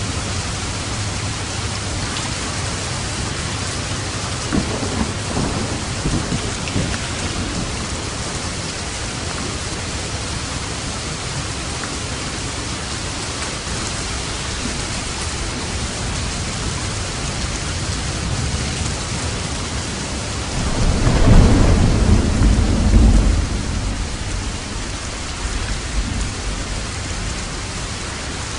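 Steady heavy rain with thunder: a few faint crackles early, then a louder rolling rumble of thunder lasting about three seconds near the end.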